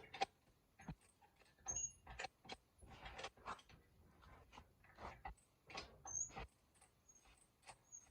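Faint, irregular clicks and knocks, with a couple of short high squeaks.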